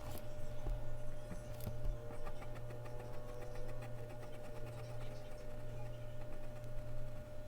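Mechanical pencil scratching on Bristol paper in quick rhythmic strokes, several a second, with a couple of sharp taps near the start, over a steady electrical hum.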